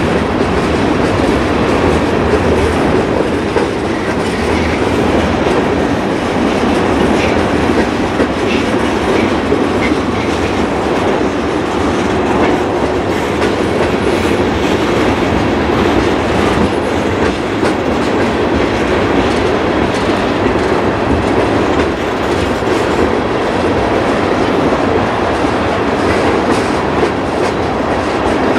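A long freight train of tank cars and covered hoppers rolling past at a steady speed: a continuous, even rumble of steel wheels on rail.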